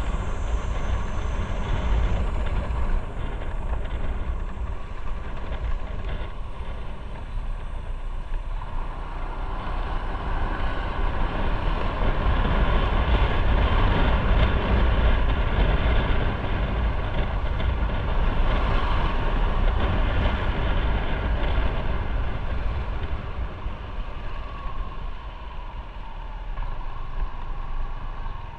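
Motorcycle on the move: a steady engine rumble mixed with road and wind noise, growing louder through the middle stretch and easing off near the end.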